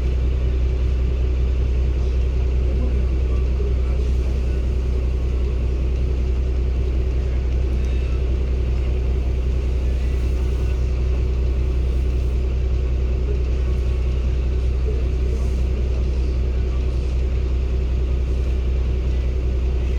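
Cummins ISB 280 PS six-cylinder diesel of a 2016 Daewoo BS090 city bus running steadily, a constant low drone heard from inside the cabin.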